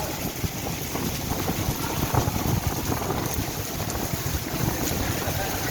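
Heavy rain pouring down steadily, with wind buffeting the microphone.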